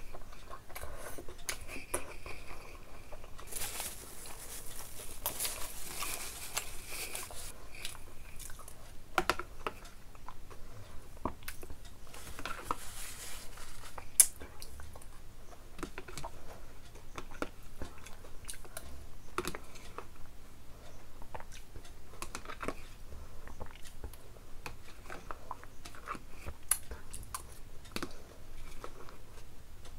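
Close-miked chewing and crunching of food, with irregular small clicks and crackles, two stretches of rustling, and one sharp click about halfway through.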